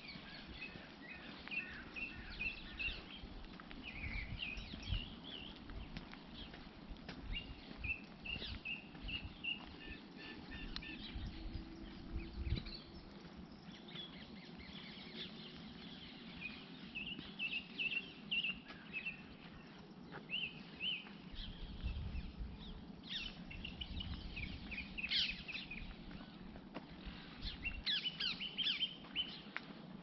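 Countryside songbirds chirping and singing: many short high notes and quick runs of repeated notes, scattered throughout, over an intermittent low rumble.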